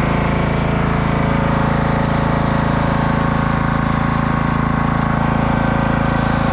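Husqvarna lawnmower engine running steadily on the winch skidder, with a few faint light clicks over it.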